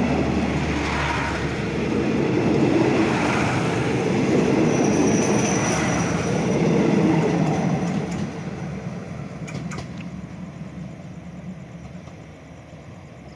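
Passenger train coaches rolling past close by, their steel wheels rumbling and clattering on the rails. About eight seconds in the end of the train goes by and the noise fades away as it recedes, with a couple of sharp clicks near ten seconds in.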